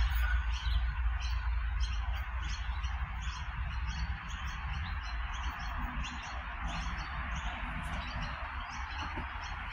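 Birds chirping repeatedly over the low rumble of a 4000 class electric train running away into the distance, the rumble slowly fading.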